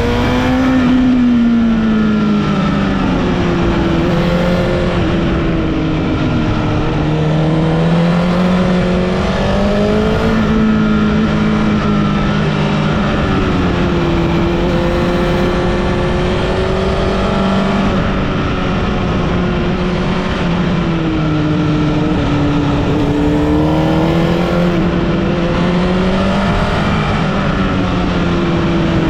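Vehicle engine under way on a winding mountain road, its pitch repeatedly climbing under throttle and dropping off as it lifts or shifts, over steady road and tyre noise.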